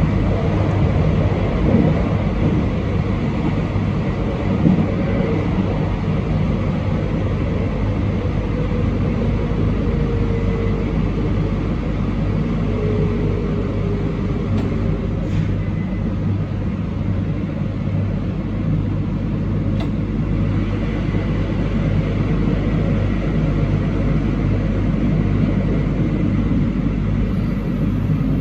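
Train running along the track: a steady rumble of wheels on rails with a constant low hum, a faint wavering whine in the middle and a couple of faint clicks.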